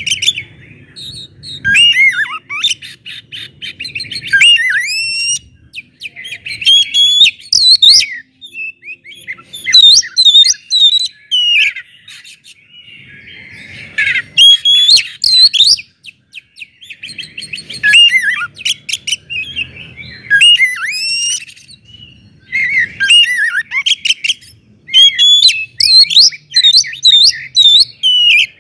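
Oriental magpie-robin (kacer) singing loudly: repeated bursts of varied whistles, quick runs of notes and sliding calls, with short pauses between the phrases.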